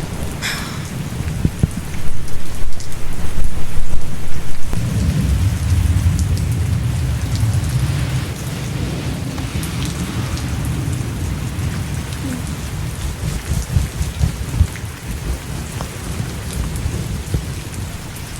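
Steady heavy rain with a thunderclap about two seconds in. Its deep rumble rolls on for several seconds and fades away.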